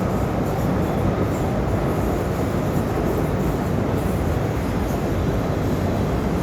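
Train rolling steadily across a railroad drawbridge: a continuous, even rumble with no distinct wheel clicks.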